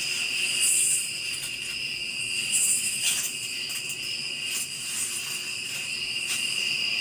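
Night insect chorus of crickets: a steady high trill that goes on without a break, with a higher buzzing call swelling in and out every couple of seconds.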